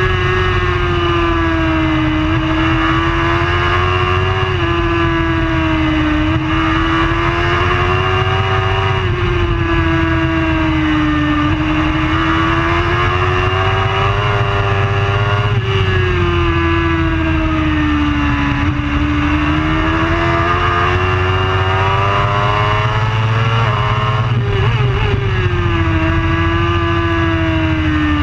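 Superbike racing engine running hard at high revs, heard continuously. Its pitch swells and falls smoothly with the throttle, with a few abrupt jumps in pitch along the way.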